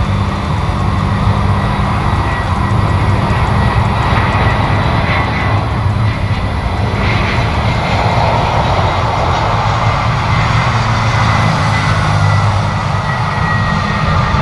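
Jet airliner engines running loud and steady: a heavy rumble with a thin, steady high whine over it.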